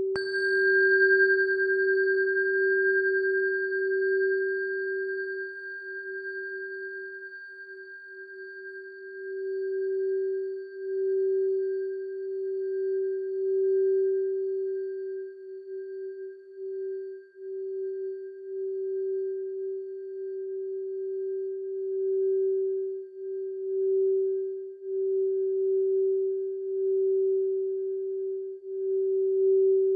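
Singing bowl tuned to G, struck once at the start. Its high overtones fade over about twenty seconds while the low G keeps humming, swelling and fading in a slow wavering beat.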